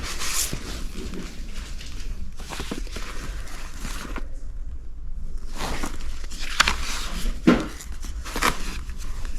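Paper rustling and handling noises as a stack of sheet music is leafed through, with a few sharp taps in the second half.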